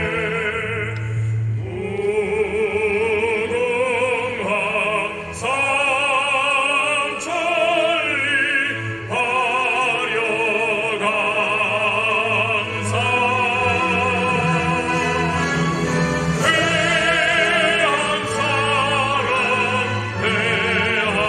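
Operatic solo voice singing long, held notes with wide vibrato over instrumental accompaniment.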